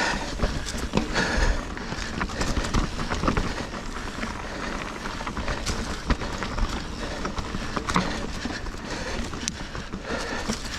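Mountain bike rolling over rocky singletrack: a steady rush of tyre and trail noise with many small clicks and rattles from the bike jolting over rocks.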